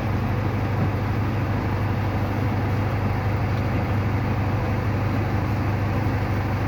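Heavy rain falling, a steady rush of noise with a strong low rumble.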